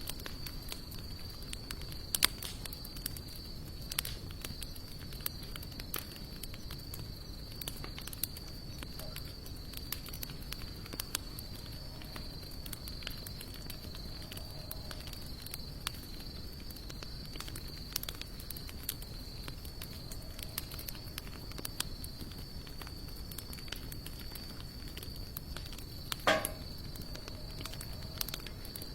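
Wood fire of sawtooth oak and mixed hardwood logs burning, crackling with frequent small sharp pops and one louder pop near the end. A thin, steady high-pitched tone runs underneath.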